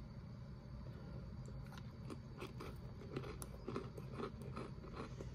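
A person chewing a crisp Kellogg's Toasteds cracker: a run of crunching bites, two to three a second, starting about a second and a half in.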